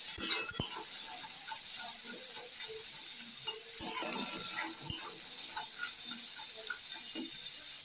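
Crab pieces frying in oil in a kadai with a steady sizzling hiss, while a spatula stirs them with scattered scrapes, clicks and knocks against the pan.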